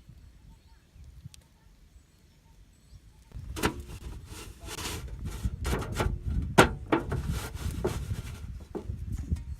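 A quiet stretch, then from about three seconds in a busy run of sharp knocks, scrapes and rubbing, as of things being handled and worked by hand.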